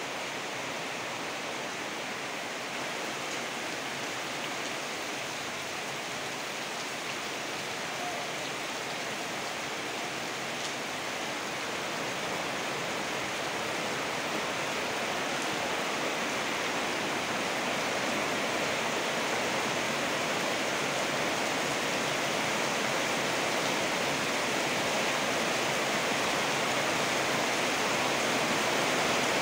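Heavy tropical rain pouring down in a steady hiss, growing gradually louder through the second half.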